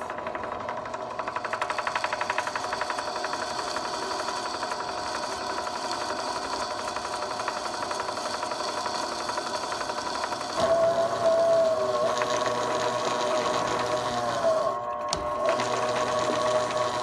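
Drill press running, its motor and spindle giving a steady hum. About ten seconds in, the bit bites into the steel plate and a louder wavering squeal joins as it cuts.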